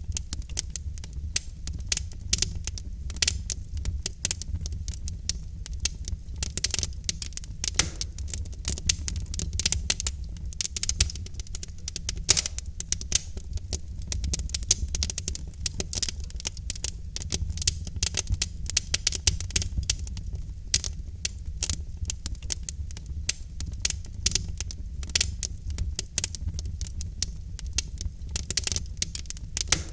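Wood fire burning in a fireplace, logs crackling with many irregular sharp pops over a steady low rumble of the flames.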